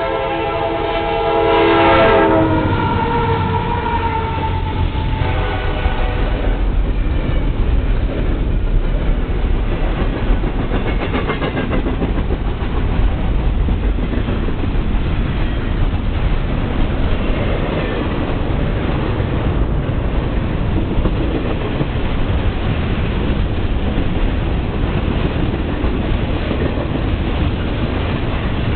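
CSX diesel freight locomotives' air horn sounding a loud chord as the train reaches the crossing, one note sliding down in pitch as it passes and fading out about six seconds in. Then the stack train's cars roll by: a steady heavy rumble with wheels clacking over the rail joints.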